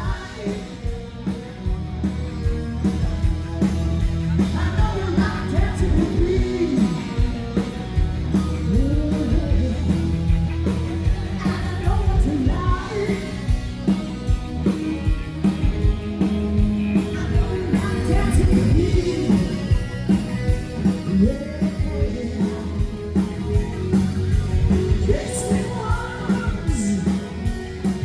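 Live band music with a singer, in a rock-and-roll party style over a steady, driving beat.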